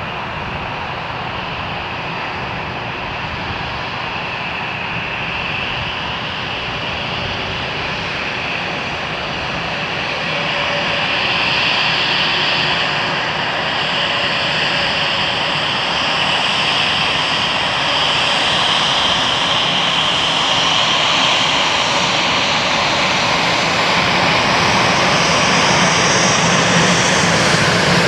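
Jet engines of an Airbus A320-200 airliner on approach to land, a steady rushing noise with a whine that slowly grows louder as the aircraft nears.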